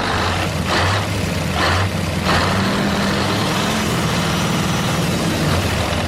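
A tractor-style engine running steadily at idle with a low hum, and three short noisy bursts in the first couple of seconds.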